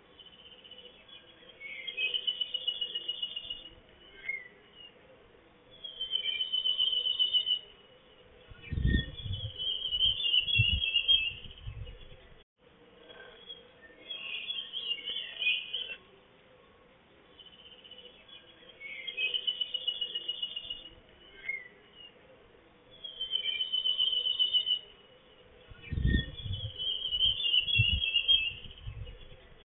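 A songbird singing short, rapid trilled phrases every few seconds. Low rumbling thumps come twice, once about a third of the way in and again near the end.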